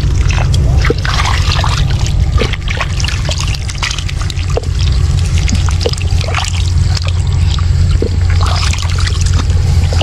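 Shallow water splashing and trickling in quick irregular spatters, over a steady low rumble.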